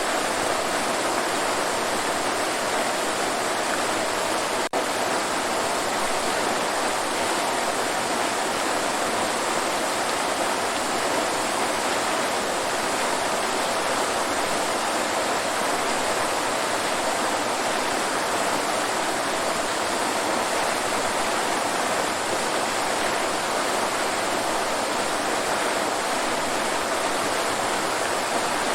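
Waterfall, a steady rush of falling water with no change in level, broken only by a split-second dropout about five seconds in.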